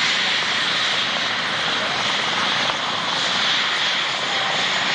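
Steady aircraft engine noise at an airshow.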